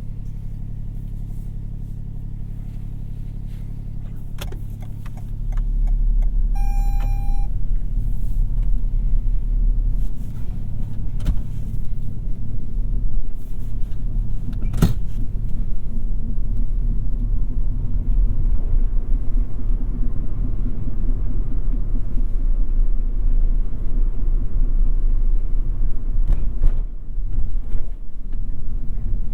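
Toyota Yaris 1.5 hybrid heard from the cabin: a steady low hum for the first few seconds, then a louder low rumble as the car gets under way. A short electronic beep sounds about seven seconds in, and a sharp click comes near the middle.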